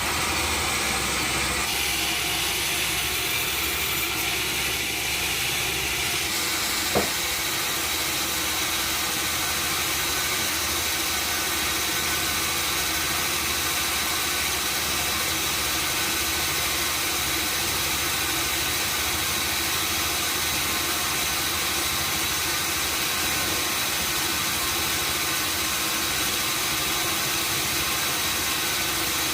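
Sawmill machinery running steadily: a constant engine-like hum under a hiss, with one sharp click about seven seconds in.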